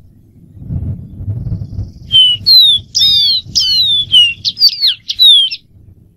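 Dark-throated seedeater singing: a quick phrase of clear whistled notes, many slurring downward, starting about two seconds in and lasting about three and a half seconds. A low rumble runs underneath.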